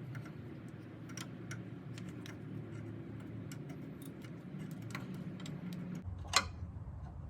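Light metallic clicks and ticks as a brake line flare nut is spun by hand into the fitting of a new brake hose, with one sharper click a little over six seconds in.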